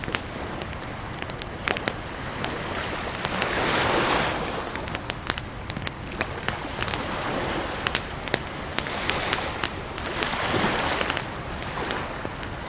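Campfire crackling, with many sharp irregular pops and snaps over a steady hiss; the rushing noise swells louder about four seconds in and again near the end.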